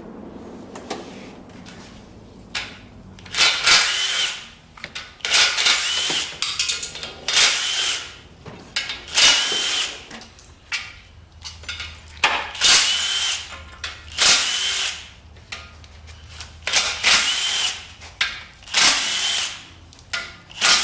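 Handheld power tool run in about a dozen short bursts, each under a second, with a high whine, as bolts are spun out of an engine being torn down.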